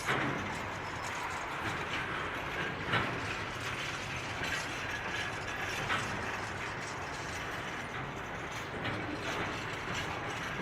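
Freight train wagons rolling past with a steady rumble and occasional sharp metallic clanks from the couplings and wagons, roughly every three seconds.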